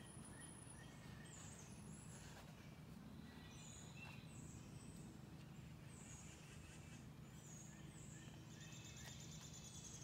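Quiet woodland ambience: small birds chirping now and then, with a fast trill near the end, over a faint steady low rumble.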